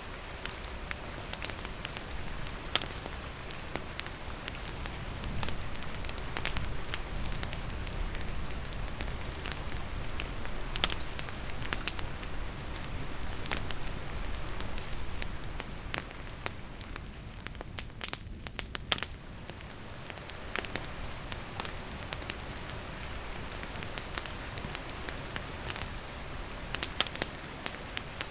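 Wood campfire crackling with irregular sharp pops, over a steady hiss of rain falling.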